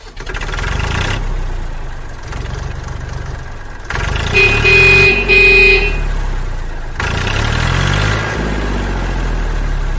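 Motor vehicle engine running and revving up and down, with two short horn honks about four and a half seconds in.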